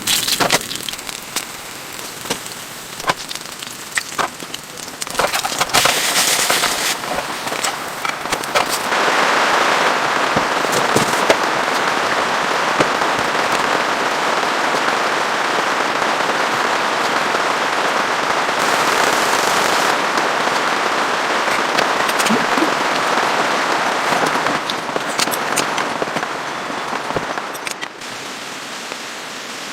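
Polyethylene stretch film crackling and rustling. At first there are scattered sharp crackles; from about a third of the way in they turn into a dense, steady crackling hiss that eases off near the end.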